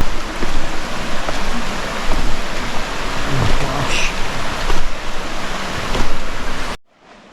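Steady rushing of a stream or waterfall, loud and even, that cuts off suddenly near the end.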